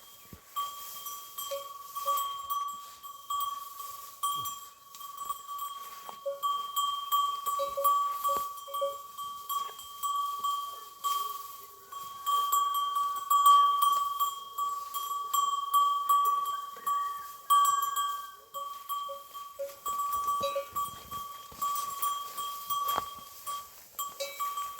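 Metal neck bells on livestock clanking with an uneven rhythm as the animals move, one bell ringing on a single clear note.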